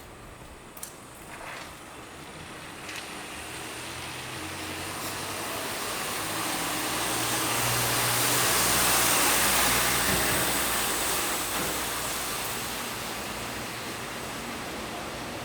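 A motor vehicle driving past: engine and tyre noise that swells to its loudest about nine seconds in, then fades.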